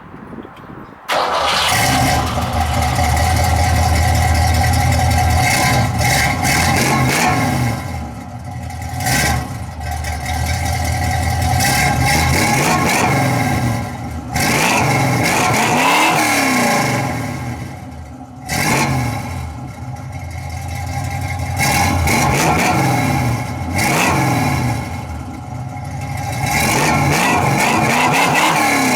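1967 Ford Mustang's 289 small-block V8, with long-tube headers, a 3-inch Y-pipe exhaust and Flowmaster 40 Series mufflers, catching and starting about a second in, then running loud and being revved several times, each rev rising and falling in pitch.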